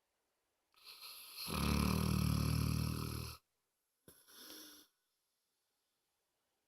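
Dog snoring: one long, loud snore starting about a second in and lasting about two and a half seconds, then a shorter, softer breath a moment later.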